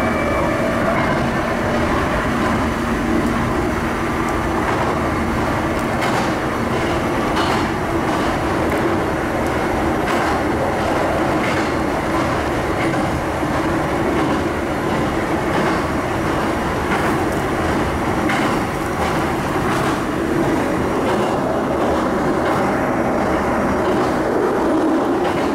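Sanyo Electric Railway train running steadily across a river bridge, heard from inside the front of the car: a constant rumble of wheels on rail, broken by irregular clacks as the wheels pass over rail joints.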